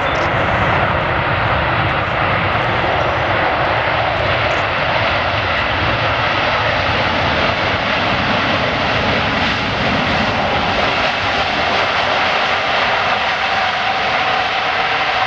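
Emirates Airbus A380's four turbofan engines, loud and steady at close range as the airliner comes in to land. A faint steady whine shows through more clearly in the last few seconds.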